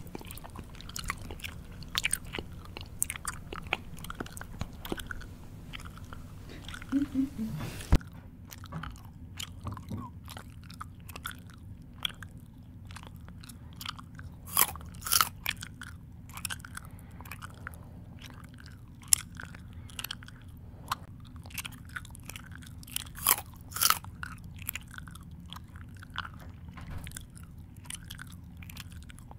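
Close-up human chewing: irregular crunching bites and mouth smacking, with a few louder crunches along the way.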